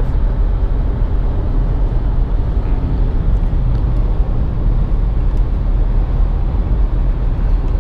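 Steady low road noise inside the cabin of a 2017 Nissan Rogue SV AWD cruising at about 80 miles per hour on the highway.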